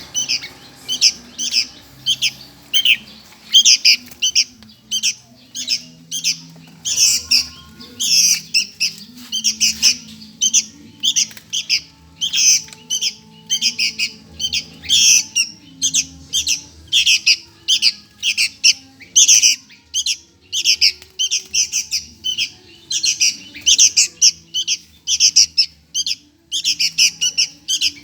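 Sooty-headed bulbul chick begging for food: short, harsh, high calls repeated about two to three times a second without a break.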